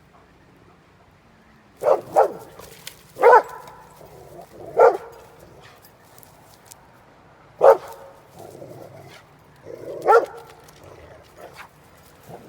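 Anatolian Shepherd dog barking at a bear: about six short barks, one pair and then single barks spaced a second or a few seconds apart.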